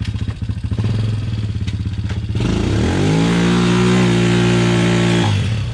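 Small ATV engine idling with a loping throb, then revving up about two and a half seconds in, held at high revs for a few seconds, and dropping back to idle near the end.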